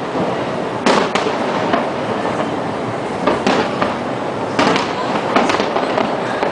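Aerial display fireworks bursting: about nine sharp bangs at irregular intervals, several in quick pairs, over a continuous dense rush of noise.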